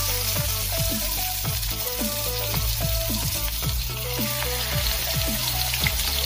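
Rice-paper-wrapped rolls of shishito peppers and vegan cheese frying, a steady sizzle.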